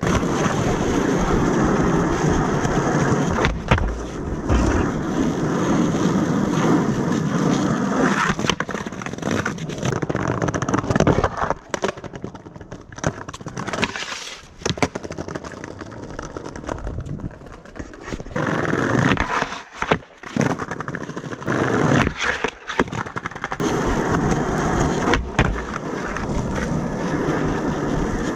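Skateboard rolling, its wheels giving a rough rumble that swells and fades, with several sharp clacks of the board.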